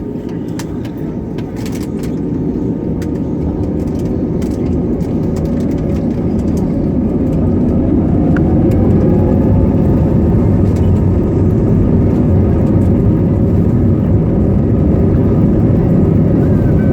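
Airbus A320neo engine and airframe noise heard from inside the cabin, a deep steady rumble that swells over the first several seconds with a rising whine, then holds loud and steady. This is typical of the engines spooling up to takeoff power for the takeoff roll.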